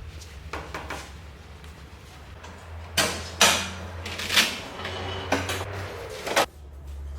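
A series of sharp knocks and clanks, about five from about three seconds in, over a low steady hum.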